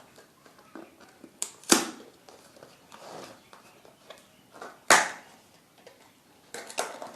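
Chocolate gift-pack packaging being handled and opened: scattered crinkles and ticks, with two sharp, loud crackles about two seconds and five seconds in, and a quick run of smaller crinkles near the end.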